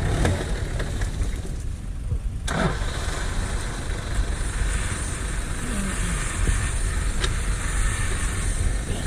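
Off-road vehicle engine running steadily, with a sharp knock about two and a half seconds in.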